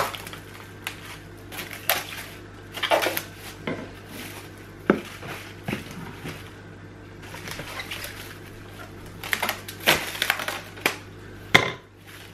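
Plastic cling film being pulled off its roll, stretched and crinkled over a plate of fish fillets: irregular crackling and rustling with a few sharp clicks, over a steady low hum.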